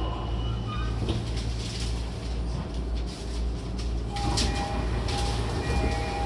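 Running noise of a Toei 10-300 series subway car at low speed: a steady low rumble with hiss, and a few short high tones in the second half.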